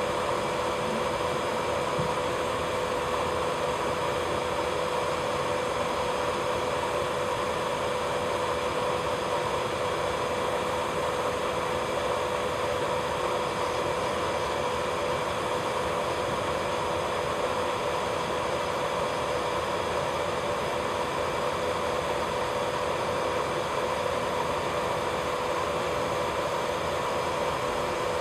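Electric nail drill (e-file) running at a steady high speed during cuticle work, a constant whine over a hiss.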